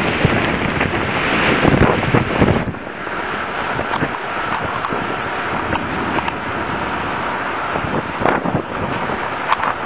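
Strong storm wind gusting and buffeting the microphone, with rain. About three seconds in the gust eases, leaving a steadier rain hiss with scattered sharp ticks.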